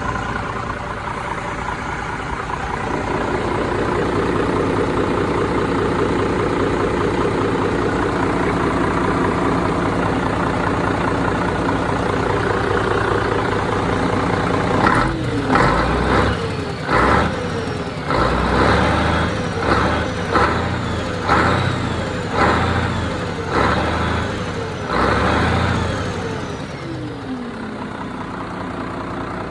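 Scania 113 H 360 truck's straight-six diesel idling, then revved in a run of about ten quick blips of the throttle, each rising and falling in pitch, before settling back to idle.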